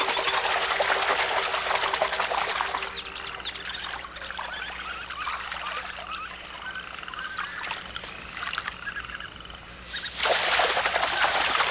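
Marsh chorus of calling frogs, a dense mass of short chirping calls. It is thick at the start, thins out after about three seconds, and thickens again about ten seconds in.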